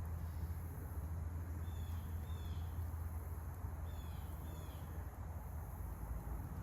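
A bird calls twice in short bursts of quick falling chirps, about two and four seconds in, over a steady low outdoor rumble.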